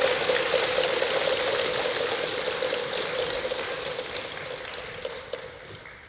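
Arena crowd applauding after a rally, a dense crackle of clapping and rattling plastic noisemakers that dies away steadily over about six seconds.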